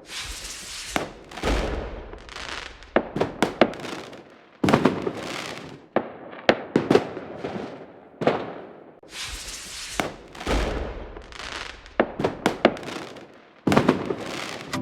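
Fireworks going off in volleys: several deep booming bursts that trail away in a hiss, between clusters of sharp cracks and crackles.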